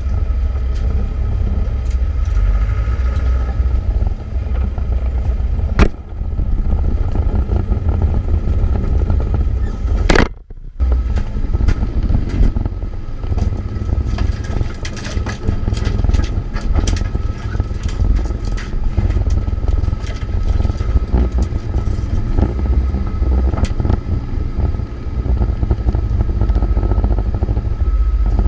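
Land Rover Defender 90 driving on a rough trail: a steady low engine and drivetrain drone. A sharp knock comes about six seconds in, and another about ten seconds in, followed by a brief dropout.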